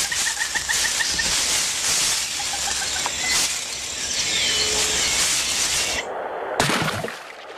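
Rainforest ambience: a steady high hiss with a rapid pulsed trill in the first second and a few scattered chirps and a short falling whistle later. About six seconds in, the high hiss cuts off abruptly and a couple of low, heavy thuds follow.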